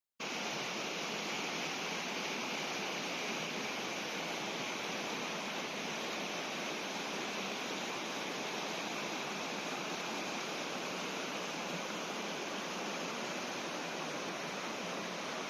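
Fast-flowing moorland river water rushing, a steady, even rush that starts abruptly just after the beginning.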